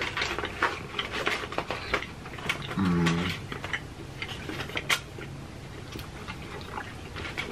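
Close-miked eating: wet chewing and lip-smacking clicks, with a short hummed "mm" about three seconds in.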